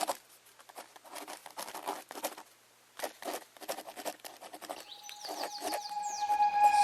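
Irregular scratching strokes of a drawing tool on paper, in quick bursts with short pauses. Near the end a chiming tune fades in and grows louder.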